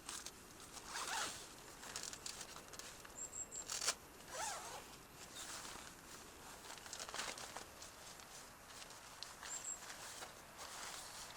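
Irregular rustling, scraping and small clicks, with two brief high chirps.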